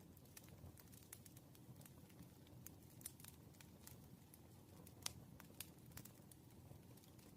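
Faint scattered clicks and taps of a pen writing on paper, with light paper crinkling, over a low room hum; the sharpest click comes about five seconds in.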